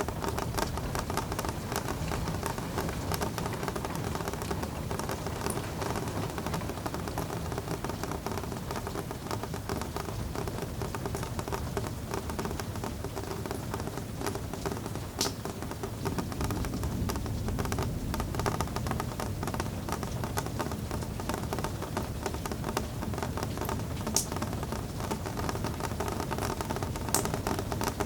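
Steady rain: a dense, even patter of drops, with a few sharper single drips standing out.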